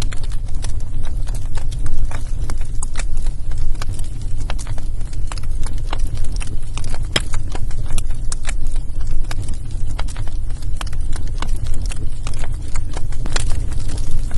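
Wood fire burning in a fireplace, crackling with irregular sharp pops over a steady low rumble of flames.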